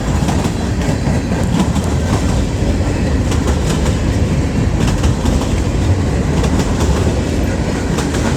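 Train passing close by: a steady heavy rumble of wheels on the rails, with repeated clicks as the wheels cross the rail joints.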